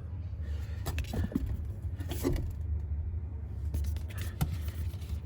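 Low steady background hum with a few light scrapes and taps of cardboard packaging being handled.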